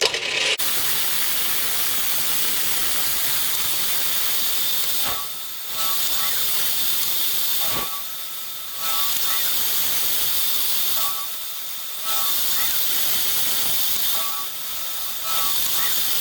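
Milling machine cutting a slot in a steel block with a 5/16-inch end mill, under a loud steady hiss that eases for about a second every few seconds. A faint whine from the cutting shows through in the dips.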